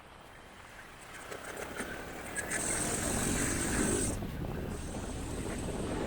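Motorcycle and street traffic noise swelling about a second in and loudest around the middle, with a high hiss that cuts off suddenly.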